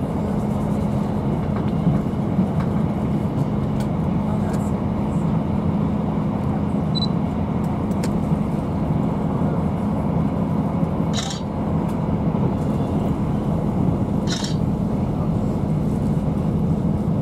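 Cabin noise inside a Class 158 diesel multiple unit running along the line: a steady low drone and rumble from the underfloor diesel engine and the wheels on the rails. Two brief hisses are heard about eleven and fourteen seconds in.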